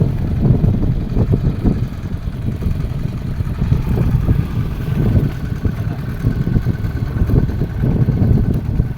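Fishing boat's engine running steadily under a low, fluttering rumble of wind on the microphone, with a faint steady whine joining about four seconds in.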